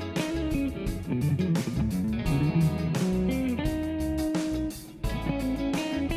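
Ibanez RG 680 electric guitar through a Marshall amp playing a melodic lead line with slides and held notes over a groove of drums and bass. The music dips briefly about five seconds in.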